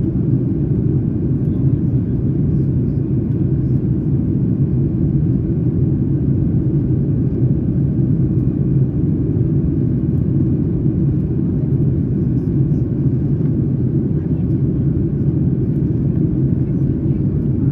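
Steady low rumble of jet engine and airflow noise heard inside the cabin of a Boeing 737-9 MAX airliner, even throughout with no distinct events.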